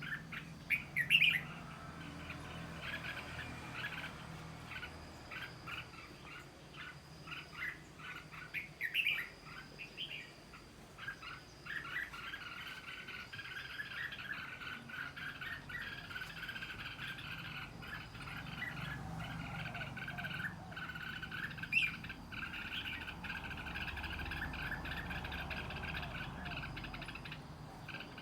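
Birds chirping: scattered short chirps at first, then, from about twelve seconds in, a steady dense chatter.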